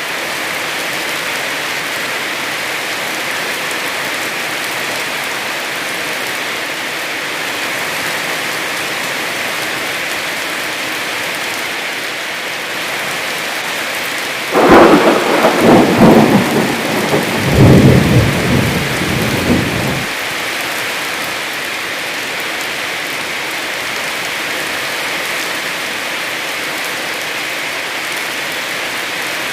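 Heavy rain falling steadily, with a thunderclap about halfway through: a sudden sharp crack that turns into a lower rumble and dies away after about five seconds.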